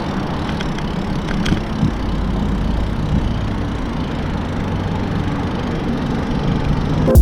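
Steady rumble of street traffic, with a vehicle engine running nearby.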